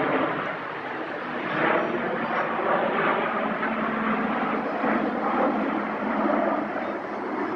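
Airplane engine noise from an aircraft flying by, swelling and fading every second or two with a steady low hum underneath.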